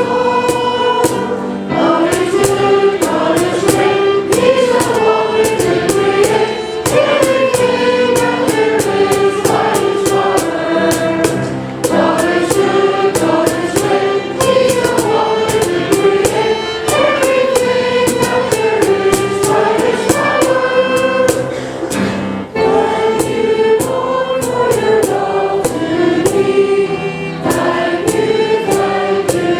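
Church choir singing a song with instrumental accompaniment and a steady beat.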